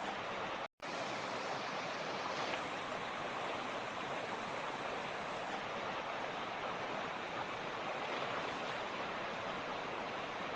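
A mountain stream rushing steadily over rocks, an even, unbroken water noise, with a brief drop to silence a little under a second in.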